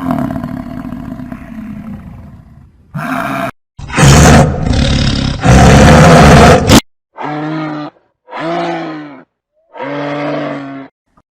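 A string of separate animal calls edited one after another: a fading call at the start, two loud roars in the middle, then three short pitched calls about a second apart near the end.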